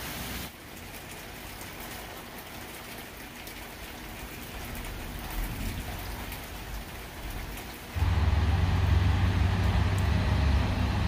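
Steady rain falling on pavement and lawn, an even hiss with a fine patter of drops. About eight seconds in it cuts off suddenly and a much louder low rumble takes over.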